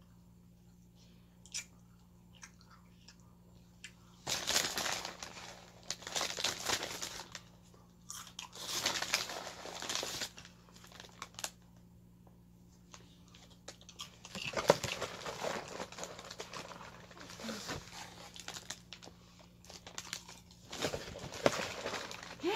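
Close-up eating sounds: a few soft chewing clicks, then several bursts of crunching and crinkling, each one to four seconds long.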